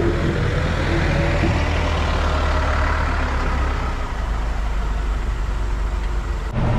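A heavy vehicle engine running steadily, with a faint rising whine over the first few seconds. The sound changes abruptly near the end.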